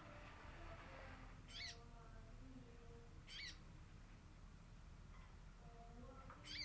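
Female sogon bird calling in a lure recording: three short, high calls a couple of seconds apart, faint over a little background noise.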